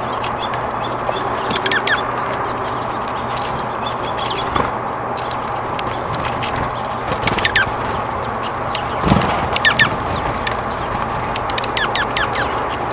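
Small birds chirping and calling in quick, short, falling notes, scattered irregularly over a steady outdoor background rush.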